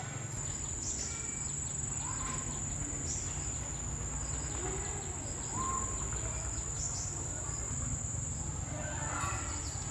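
Insects droning in one steady high-pitched buzz, with a few short bird chirps and a low steady rumble underneath.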